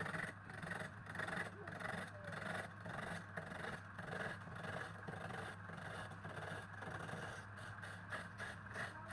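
A machine's steady hum with uneven scraping over it.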